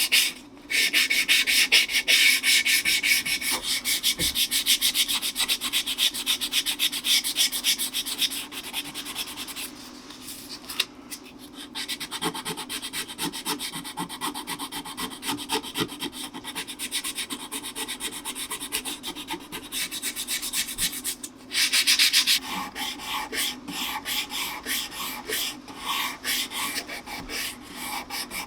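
Hand-sanding a cello's wooden neck to finish its shaping: sandpaper rubbed over the wood in quick back-and-forth strokes, with a few brief pauses.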